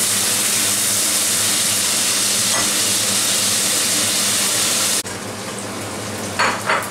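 Cubes of paneer shallow-frying in white oil and a little ghee in a kadai, fried lightly just until they take a little colour: a steady, dense sizzle. About five seconds in, it drops suddenly to a quieter sizzle.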